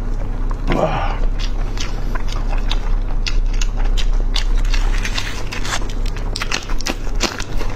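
Close-miked chewing and biting of sauce-coated chicken, with many sharp, wet mouth clicks. A steady low hum runs underneath.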